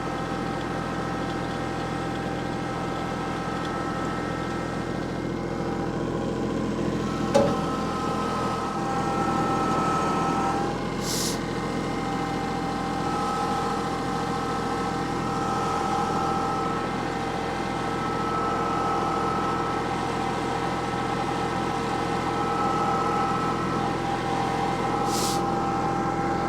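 A vehicle engine running steadily for the whole stretch, its pitch stepping up slightly a couple of times. There is one short click about seven seconds in.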